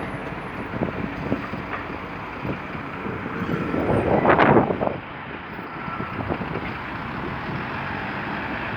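Mercedes-Benz O345 Conecto LF city bus heard from inside at its final stop: a steady running rumble with scattered knocks and rattles. About four seconds in, a louder rushing noise swells and then cuts off suddenly.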